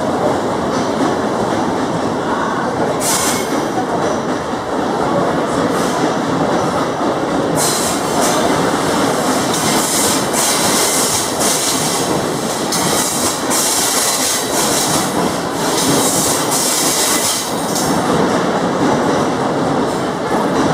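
Hokutosei sleeper train's carriages rolling past on departure, wheels clacking over the rail joints, with repeated bursts of high-pitched wheel squeal.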